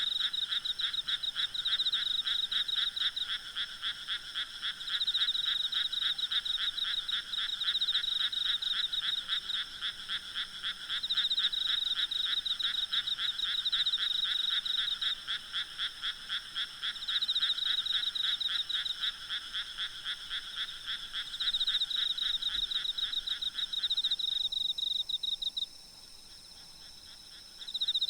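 A chorus of frogs calling in rapid pulsing trills, phrase after phrase, over the steady high buzz of insects. The frog chorus stops abruptly about three seconds before the end, then starts again.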